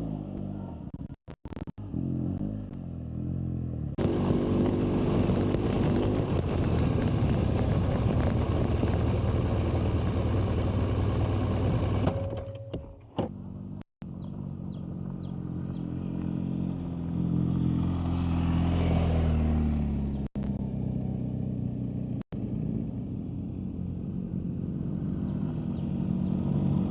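BMW GS motorcycle's boxer-twin engine running and revving up and down, in several short clips joined by abrupt cuts, with a louder rushing stretch in the first half.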